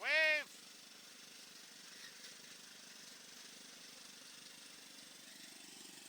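A short, loud pitched call that rises and falls in pitch right at the start, then an old three-horsepower cast-iron washing-machine engine on a garden tractor running faintly with a steady putter.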